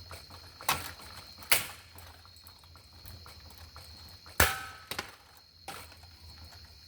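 A ceiling fan being smashed apart: about five sharp strikes, the loudest about four and a half seconds in with a brief metallic ring. A steady high thin whine runs underneath.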